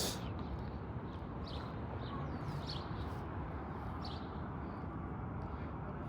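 Outdoor street ambience: a steady low rumble with short, high bird chirps scattered through it, roughly one every second.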